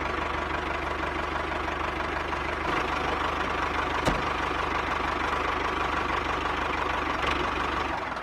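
An engine idling steadily with a low, even pulse, and a single sharp click about four seconds in.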